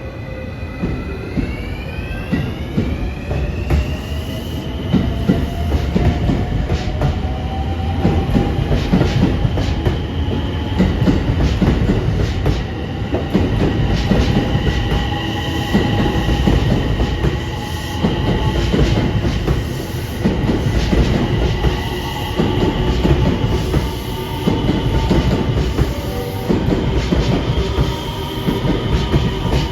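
Electric train running: its motor whine rises in pitch over the first few seconds, as it does when the train pulls away, then holds steady over a heavy rumble, with wheels clacking over rail joints.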